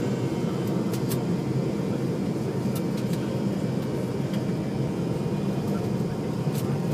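Steady rumbling cabin noise of a jet airliner, engine and airflow noise heard from inside the passenger cabin, with a few faint clicks.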